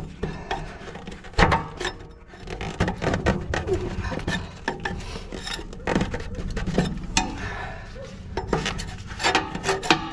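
Metal stove parts clanking, knocking and scraping as they are moved and handled inside a wood-burning stove, in irregular clatters with a sharper knock about a second and a half in and another around six seconds.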